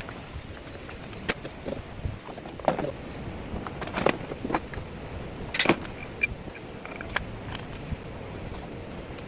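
Scattered metallic clinks and knocks from hand tools and metal engine parts being handled, several with a short ringing tail, over a steady low hum.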